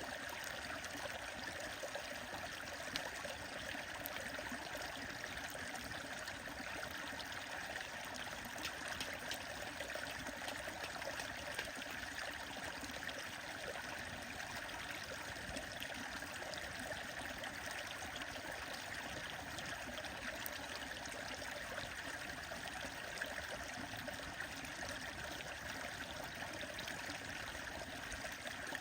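Steady rushing and trickling of a stream, with a few sharp crackles from a burning wood fire now and then.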